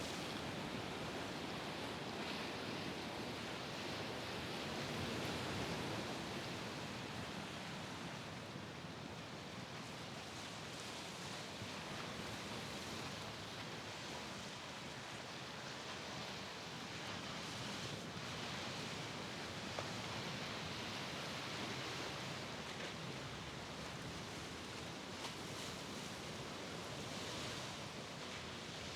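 Steady wash of sea surf on the shore, an even hiss that slowly swells and eases.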